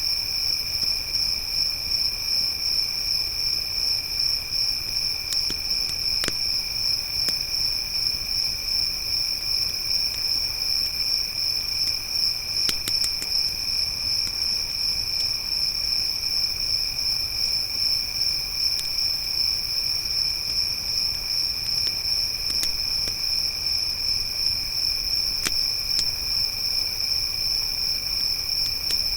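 Crickets chirring steadily in a continuous high-pitched drone, with a few faint crackles from a campfire now and then.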